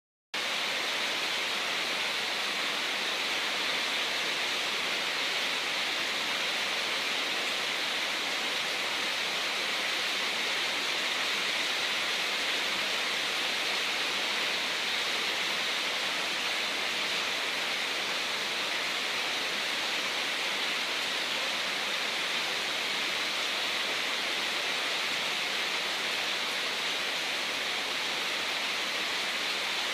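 Steady, even hiss of running water from a homemade aquarium sandfall, starting abruptly just after the beginning.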